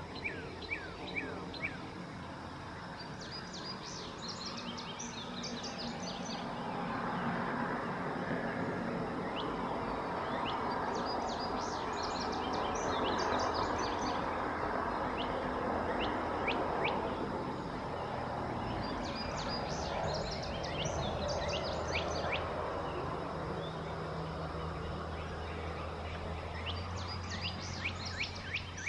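Songbirds singing at dawn: one bird repeats a short phrase of quick, high, downward-sweeping notes about every eight seconds, over a steady background hiss that swells in the middle, with a low steady hum.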